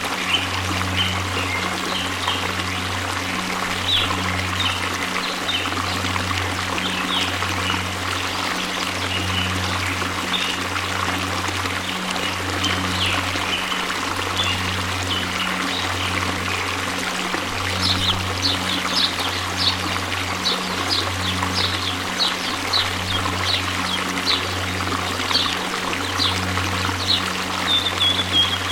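A waterfall's steady rush of falling water, with short high chirps or splashes sprinkled through it that grow busier in the second half. A low hum runs underneath, breaking off briefly about every second.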